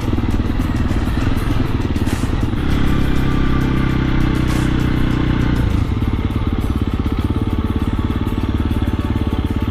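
KTM 350 SX-F dirt bike's single-cylinder four-stroke engine running while being ridden, heard close up. Its note changes about halfway through.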